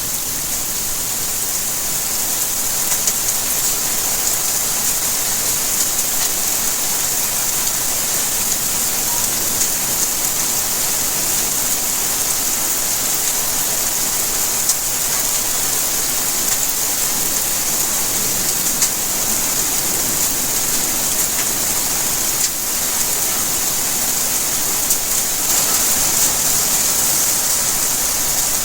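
Steady rainfall: a dense, even hiss of rain with scattered drops pattering on surfaces.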